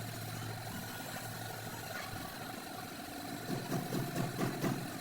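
A motor or engine running steadily, with a stretch of irregular rapid rattling about three and a half seconds in that stops just before the end.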